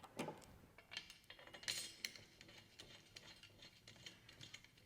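Faint metallic clinks and light taps as steel bolts are handled and threaded by hand into a compressor's steel mounting bracket, the clearest clink about two seconds in.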